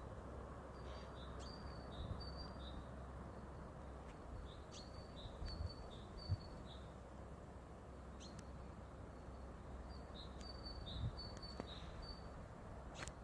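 A songbird singing three short phrases of quick high chirping notes a few seconds apart, faint, over a steady low background hiss.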